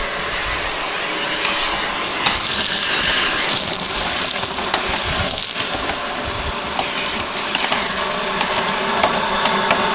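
Corded Dyson upright vacuum running at full suction, a steady rushing hiss with a high motor whine, and scattered sharp clicks of grit and pine needles rattling up through it. Later a thin high whistle joins; to the user it sounds like something has got stuck in the vacuum, a blockage.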